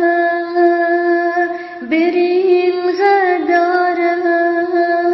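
A woman's voice singing unaccompanied, holding long drawn-out notes, with a brief break and a change of note about two seconds in.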